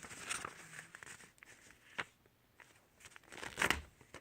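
A sheet of paper being folded and creased by hand, crinkling with a few short crackles, the loudest near the end.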